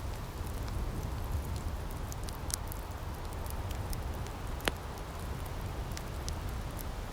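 Wood fire crackling in a firepit: scattered sharp pops and snaps over a low steady rumble, with one louder pop about two-thirds of the way through.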